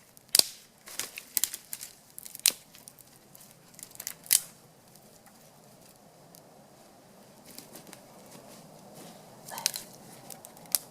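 Dry twigs and kindling snapping and crackling: a handful of sharp cracks in the first few seconds, then faint rustling with a couple more snaps near the end.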